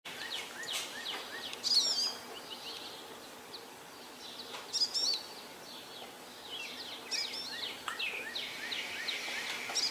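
Birds singing: short warbling phrases about two, five and seven seconds in, loudest of all, with softer chirps between them over a faint steady hiss.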